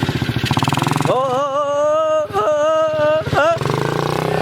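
Mini dirt bike's small engine running with a fast even beat, and over it, from about a second in, a person's voice holding one long wavering note for about two and a half seconds, with a brief break midway.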